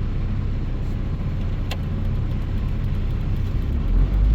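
A car running, with a steady low engine and road rumble that grows louder near the end. There is a single sharp click about two seconds in.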